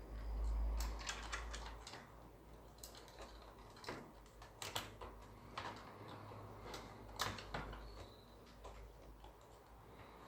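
Scattered sharp clicks and light taps of small tools and parts being handled, a dozen or so at uneven spacing, over a low rumble that is strongest in the first two seconds.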